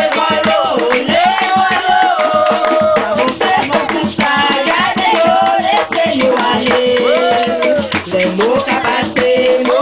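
Traditional Creole folk song: singing over shaken rattles and hand percussion keeping a quick, steady beat.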